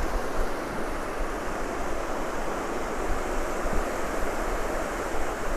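Ocean waves washing onto the beach in a steady hiss, with wind rumbling on the microphone.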